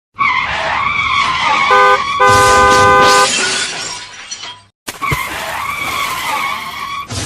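Vehicle sound effects: a wavering, screeching tone like skidding tyres, broken by two blasts of a multi-tone horn, a short one and then one about a second long. It fades, stops briefly, and the skid sound starts over.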